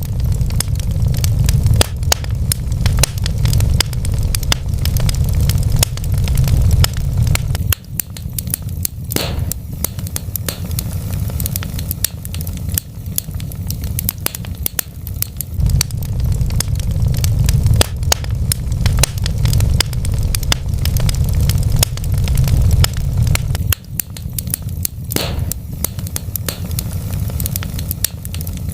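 Wood fire burning in a fireplace, crackling and popping continuously over a low rumble of the flames that swells and fades every several seconds.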